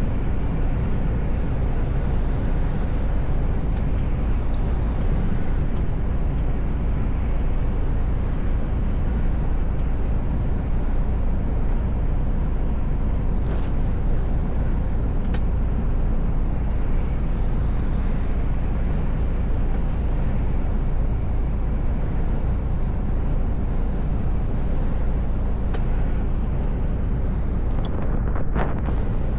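Mercedes Actros L truck driving at steady speed, a constant low engine drone with road and tyre noise. A short higher-pitched swish about halfway through and a few more near the end.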